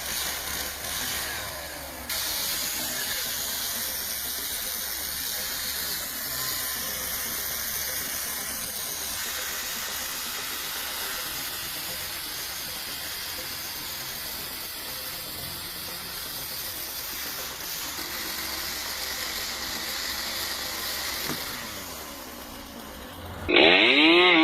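Steady, even hissing noise with no clear pitch. Near the end a small engine cuts in loudly and revs up and down in wavering sweeps.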